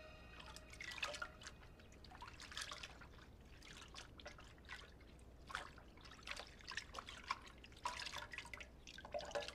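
Faint water dripping and trickling, in irregular small drops.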